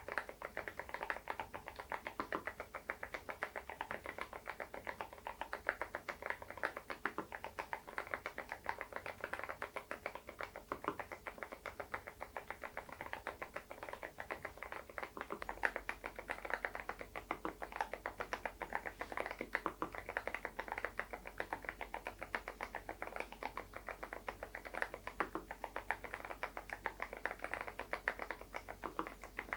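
Typing on an SPM PL108W full-size keyboard fitted with stock, unlubricated low-noise Moksae switches. The keystrokes run in a steady, quick stream of several per second.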